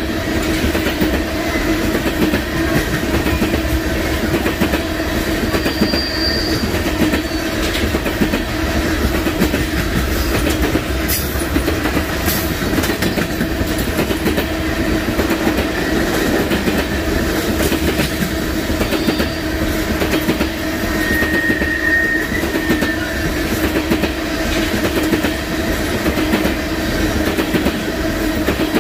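Freight train cars rolling steadily past on the rails, with a few sharp clanks about eleven seconds in and brief high wheel squeals about six and twenty-one seconds in.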